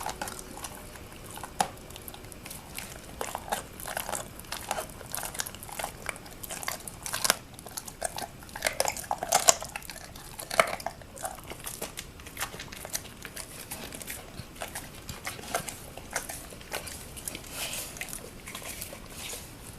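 Presa Canario chewing a raw chicken leg quarter, with irregular wet crunches and cracks as her teeth break through the bone, the loudest cluster near the middle.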